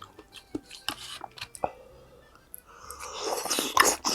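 Close-up eating sounds: soft wet mouth clicks of chewing spicy tteokbokki, then a louder noisy burst of eating about three seconds in, lasting about a second.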